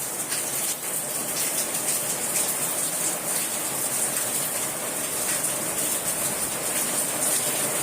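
Rain falling steadily, a constant even hiss of water.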